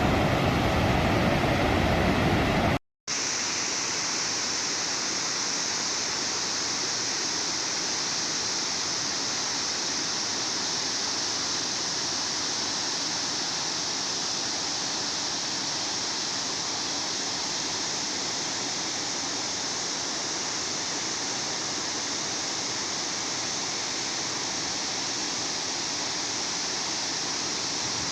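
Steady rushing of a waterfall, an even hiss strongest in the upper range. For about the first three seconds a louder, deeper rushing noise plays instead; it cuts off abruptly, and after a moment's silence the even waterfall sound takes over.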